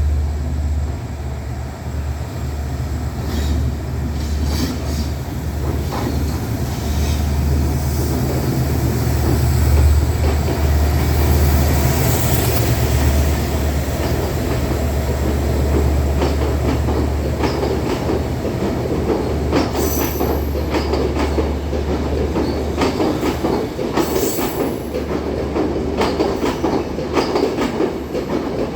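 Class M11 diesel locomotive's engine running with a steady low drone as the train draws in. In the last third the drone fades and the coaches' wheels clatter over rail joints, with brief high squeals.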